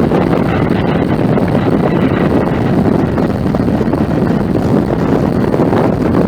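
Jet airliner engines rumbling loudly and steadily, with a faint steady whine above the rumble.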